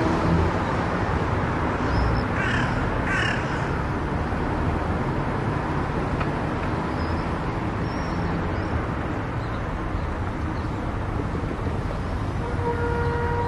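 A crow cawing twice, a little over two seconds in, over steady road-traffic noise.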